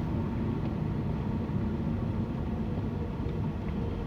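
Car on the move, heard from inside the cabin: a steady low rumble of engine and road noise, with a faint tone that rises slowly.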